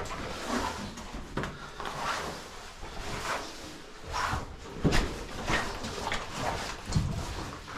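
Irregular scrapes and knocks of cavers moving through a cave passage, the sharpest knock about five seconds in.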